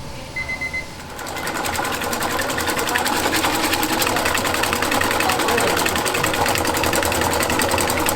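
A series of quick electronic beeps, then a machine starts up and runs with a fast, even clatter for about seven seconds before stopping abruptly.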